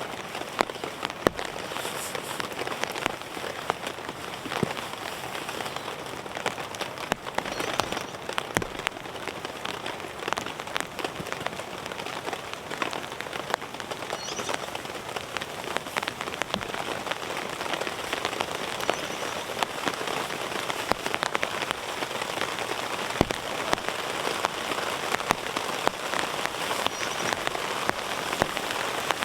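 Heavy rain falling steadily, with many separate drops striking close by as sharp ticks over the hiss.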